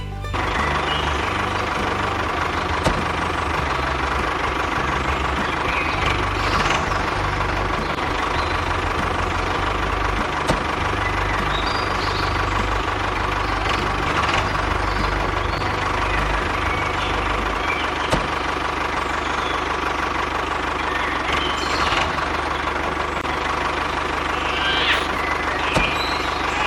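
A small motor running steadily with a constant whine; its low, rapid pulsing changes about two-thirds of the way through.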